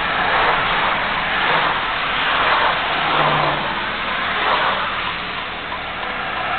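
GMC 2500HD dump truck under way: steady engine and road noise that swells and eases a little as it drives.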